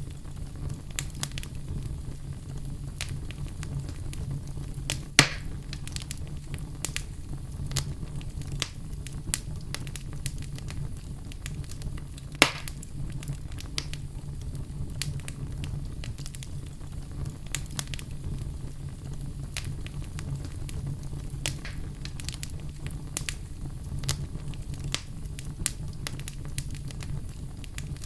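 Fire burning in a fireplace: a steady low rumble with frequent small crackles and two louder pops, one about five seconds in and one near the middle.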